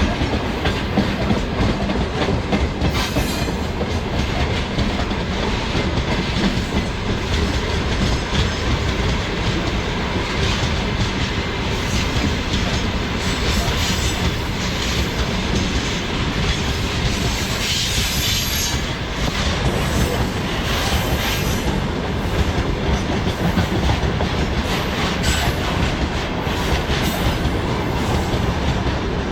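Long freight train rolling past at speed, its wagon wheels clattering over the rail joints in a steady clickety-clack.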